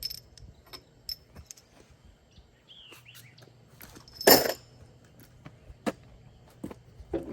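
Scattered metallic clinks and taps of hand tools and engine parts being handled, with one louder clank about four seconds in.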